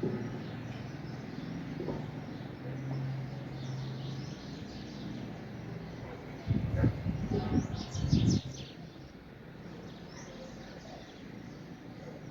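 Small birds chirping, with a cluster of brighter chirps about two-thirds of the way in, over a steady low hum. Several loud bursts of low rumbling noise come between about six and a half and eight and a half seconds in.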